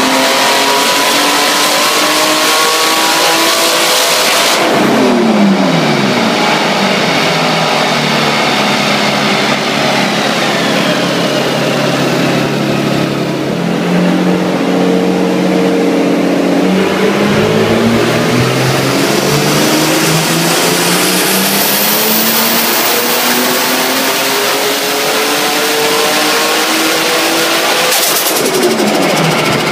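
BMW straight-six in a drift car doing throttle pulls on a chassis dyno. The engine note climbs steadily for several seconds, then drops sharply as the throttle closes; this happens about four seconds in and again near the end. Between the pulls the engine runs at a steadier, lower speed.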